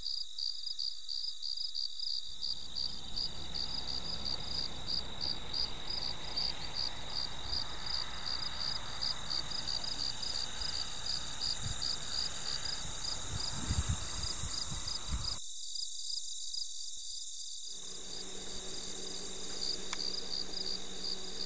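Evening insect chorus: a steady high-pitched chirping that pulses about three times a second, with a low rumble under it for much of the time.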